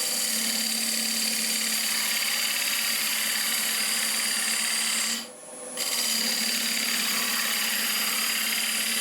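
Square carbide turning tool cutting spinning wood on a wood lathe, a steady loud scraping hiss over the lathe's steady motor hum. The cut breaks off briefly about five seconds in as the tool lifts, then resumes.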